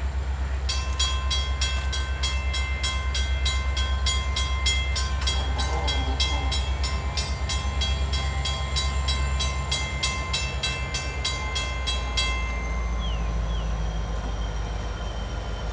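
A diesel freight train running past with a steady low engine rumble. A bell rings rapidly over it, about four strokes a second, and stops about twelve seconds in.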